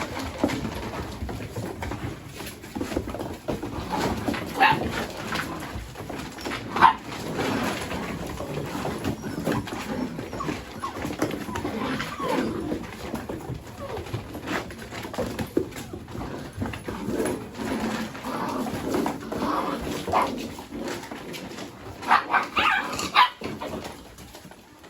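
Mini Goldendoodle puppies playing together, giving short yips and whines now and then over steady scuffling and bumping, with a cluster of yelps near the end.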